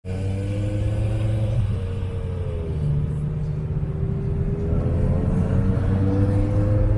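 Car engine running steadily with a low rumble, its pitch dipping slightly about a third of the way in and then rising slowly.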